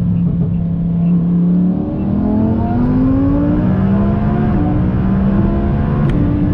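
Twin-turbocharged 2018 Audi R8's V10 engine pulling under acceleration. It holds a steady note, then climbs in pitch from about two seconds in, with a shift midway before it rises again.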